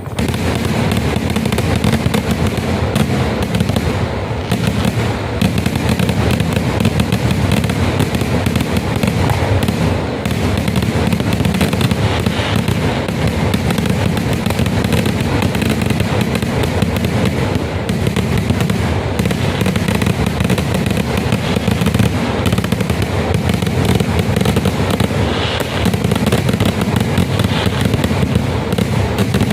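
Kerala temple-festival fireworks (vedikkettu): a dense, unbroken barrage of firecracker explosions, many bangs a second merging into a continuous crackle and rumble.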